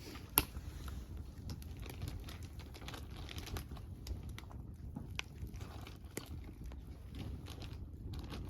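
Wood campfire crackling, with irregular small snaps and pops and one loud sharp pop about half a second in.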